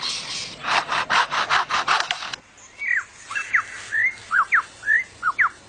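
A superb lyrebird mimicking a chainsaw, with rapid, rhythmic rasping cutting strokes. About two and a half seconds in it switches to short, sliding whistled notes.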